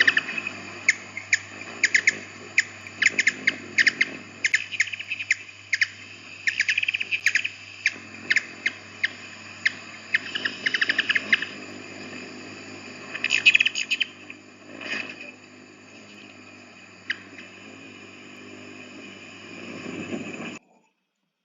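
Hummingbird chirping: a long run of short, sharp chip notes, some bunched into quick trills, growing sparser in the later part and cutting off near the end.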